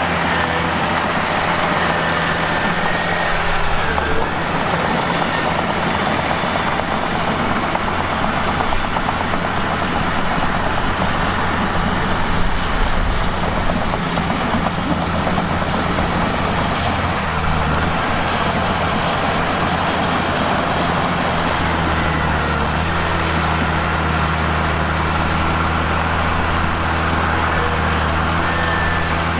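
Mitsubishi bulldozer's diesel engine running, with a steady low hum. From about three seconds in, a rougher rumble joins it, and near the end it settles back to an even, idle-like run.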